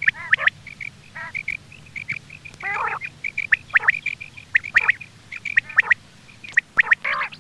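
Quail calling repeatedly: short clipped notes at one high pitch mixed with quick downward-sweeping calls, a few per second, with a few harsher, lower calls among them.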